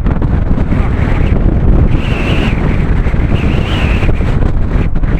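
Strong wind buffeting the camera microphone during a bicycle ride: a loud, steady low rumble of wind noise.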